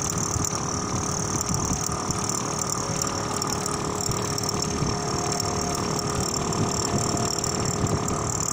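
Steady mechanical running noise from the truck, with a high, even hiss over it.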